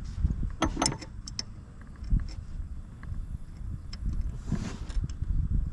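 Sharp metal clicks and clinks of bolts being fitted by hand into a steel finish mower deck, the loudest a little under a second in and smaller ones scattered after, over a steady low rumble.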